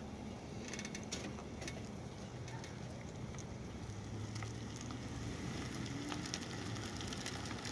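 Steady low hum of vehicle engines idling, with light scattered crackles and ticks and a sharp click right at the end.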